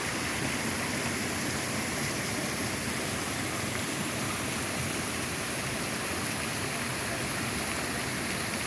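Waterfall and creek swollen by heavy rain, the water rushing with a steady, unbroken noise.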